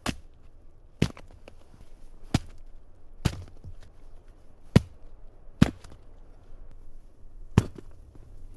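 Wood being chopped for the stove: seven sharp, hard blows at uneven spacing, about a second or so apart.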